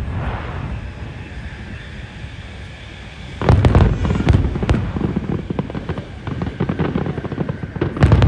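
Aerial fireworks bursting. For about three seconds there is lighter crackling, then a rapid volley of loud booms and crackles breaks out, with another loud burst near the end.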